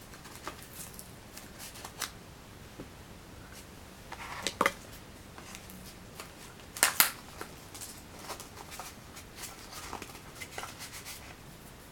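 Packaging handled by hand: scattered light rustles and clicks, with two louder crinkles about four and a half and seven seconds in.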